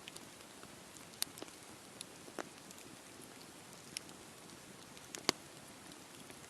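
Wood campfire burning: a low steady hiss with scattered sharp crackles and pops, the loudest about five seconds in.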